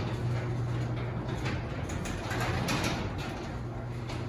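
Electric garage door opener running with the door rolling along its tracks: a steady motor hum under a light rattle of rollers. The springs and rollers are freshly soaked with PTFE spray lube, and the run is so much quieter.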